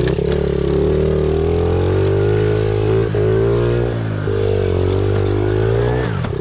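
Pit bike engine running under way, its note rising and falling as the throttle is worked. There are short breaks in the note about three and four seconds in, and it drops and climbs again near the end.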